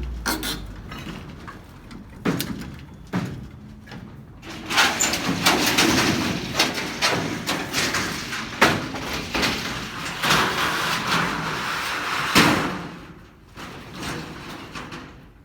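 Corrugated metal roofing sheets being handled and loaded: a few knocks, then a long stretch of scraping and rattling sheet metal with several sharp bangs, dying away near the end.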